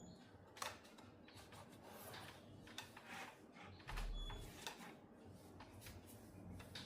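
Scattered light clicks and taps of small parts being handled, with a low thump about four seconds in.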